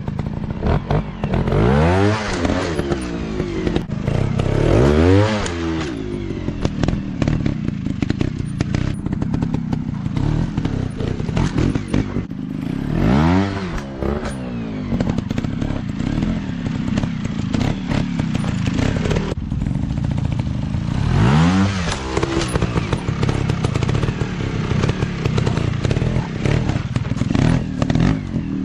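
Small dirt bike engines running and revving, rising and falling in pitch about five times, with scattered clattering knocks.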